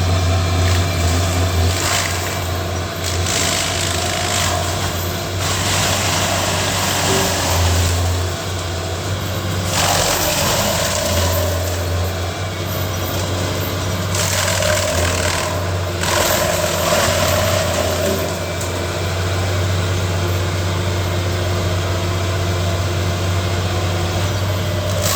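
Heavy tree-processing machine's engine running steadily under load, with several bursts of loud grinding noise lasting a second or two each as it chews through wood.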